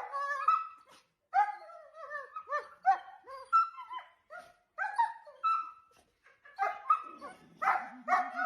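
A dog whining and yelping in a rapid string of short, pitched cries, protesting at having its nails clipped. A low wavering grumble joins near the end.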